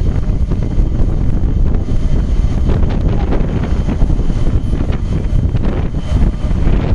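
Boeing 747 jet engines at takeoff thrust heard from directly behind. The jet blast buffets the microphone with heavy wind noise, a loud, steady, deep rush.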